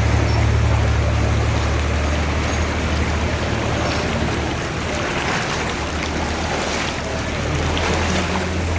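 A vehicle engine running with a steady low hum over the rushing wash of floodwater; the hum eases off around the middle and comes back stronger near the end.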